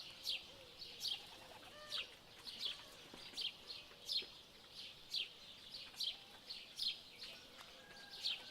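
A bird calling in a steady run of short, sharply falling chirps, about one to two a second, with fainter lower whistled calls underneath.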